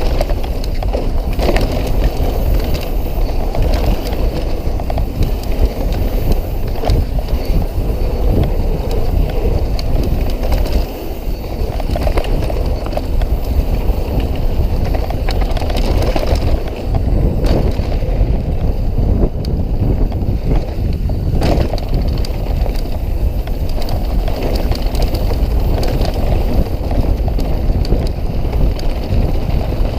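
Mountain bike riding fast down a downhill trail: a continuous rush of tyre and wind noise, with the frequent rattles and knocks of the bike over rough ground.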